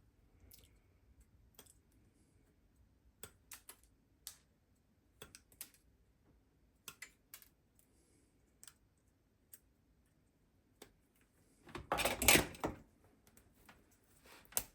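Scattered light clicks and taps of small parts and tools being handled, with a louder burst of rattling clatter about twelve seconds in.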